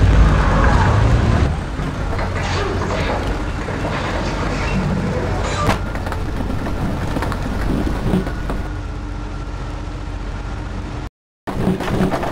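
Demolition derby cars' engines running in a dense mechanical din, loudest in the first second or so, with one sharp crack about six seconds in. The sound cuts out abruptly for a moment near the end and then comes back loud.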